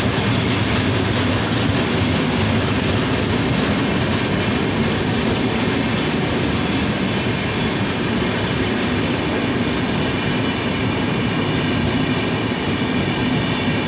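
Express train's LHB passenger coaches rolling past on the near track, with a steady rumble and rush of wheels on rails.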